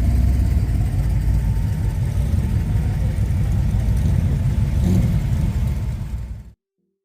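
A car engine running close by, a low throbbing exhaust note that cuts off suddenly near the end.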